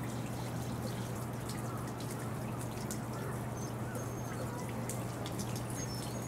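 Raindrops dripping and pattering close to the microphone, scattered irregular ticks over a steady low hum.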